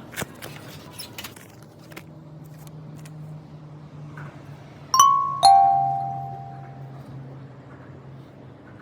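A two-note ding-dong chime: a higher note, then a lower note half a second later, each ringing out and fading. A few light clicks come earlier, over a faint steady low hum.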